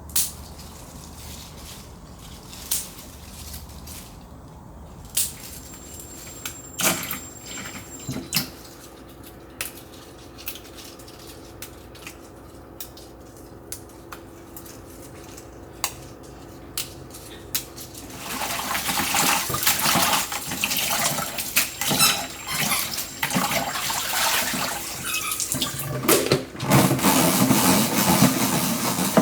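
Scattered clicks and knocks of things being handled. Then, about 18 seconds in, water starts running, loud and continuous, with small clatters mixed in, as at a sink.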